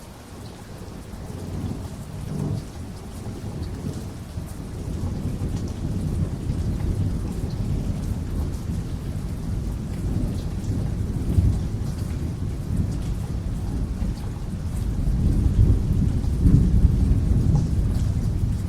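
Rain falling with rolling thunder in a tropical storm; the deep rumble swells about fifteen seconds in and stays loud near the end.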